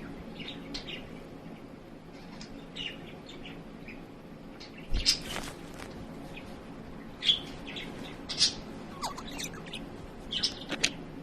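Budgerigar chirping and twittering in short, scattered calls, louder bursts about five seconds in, twice around seven to eight seconds, and near the end. A soft low knock comes with the chirp about five seconds in.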